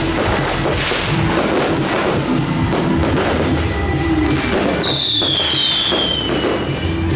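Fireworks and firecrackers cracking and banging repeatedly over loud music. A high whistle falls in pitch about five seconds in and lasts over a second.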